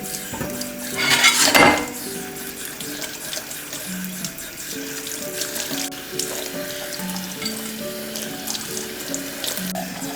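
Water running from a kitchen tap into a sink, with a louder gush about a second in, over soft background music with a slow melody.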